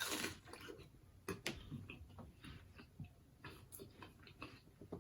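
Close-miked chewing of juicy watermelon: faint, irregular wet clicks and smacks, with a short louder bite or slurp at the start.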